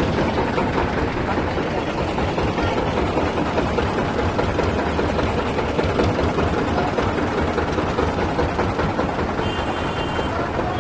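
Steady engine and rumbling running noise of a moving vehicle, with no change in pitch.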